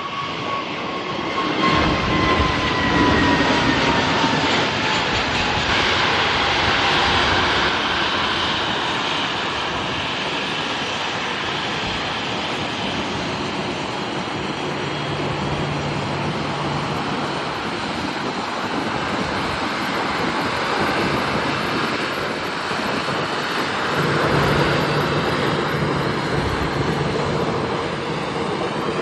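Jet airliner passing close by: its engine whine falls in pitch over the first several seconds, under a loud, steady rush of jet noise that carries on to the end.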